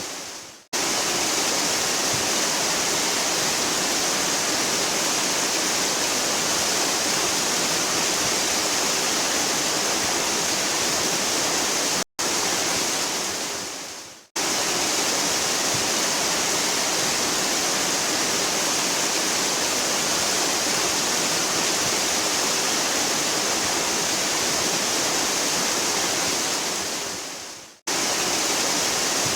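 Steady, dense rush of a waterfall. It is broken three times by brief dropouts where the sound fades away and then cuts straight back in.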